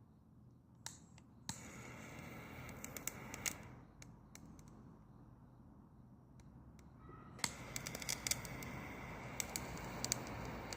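Dry branches crackling and popping as they burn in a Solo Stove wood-burning stove, over a rushing noise of the fire that comes in about a second and a half in, eases off in the middle, and returns with thicker popping near the end.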